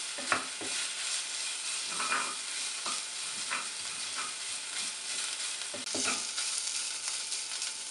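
Onion and spice paste frying in hot oil in a nonstick pot, a steady sizzle, with a wooden spatula scraping and stirring through it at irregular intervals.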